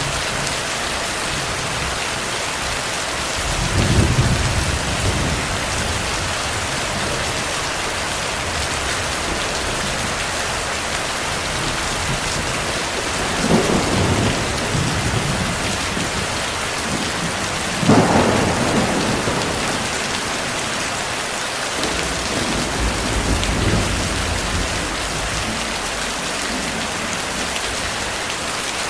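Heavy rain falling steadily, with distant thunder rumbling low about four times, the loudest roll about two-thirds of the way through.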